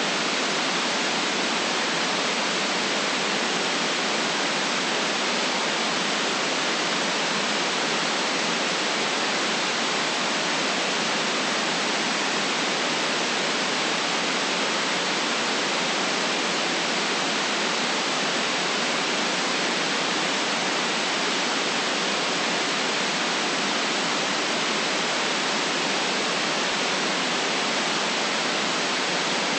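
Steady white noise: an even, unchanging hiss with no deep bass.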